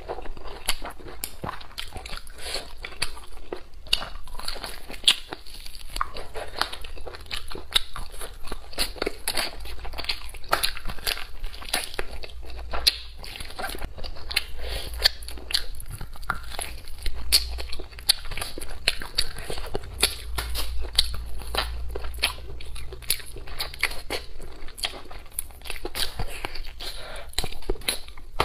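A person chewing and biting food close to a clip-on microphone: a continuous run of small, irregular mouth clicks and soft crunches.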